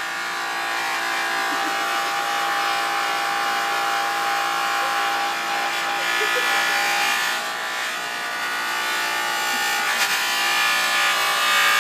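Electric buffing machine running with its wheel against a solid bronze eagle casting: a steady motor whine of several held tones, with a faint click about ten seconds in.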